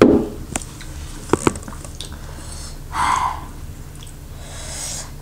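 Close-up mukbang eating sounds: a person chewing and biting into food, with a thump right at the start and a couple of sharp clicks about a second and a half in.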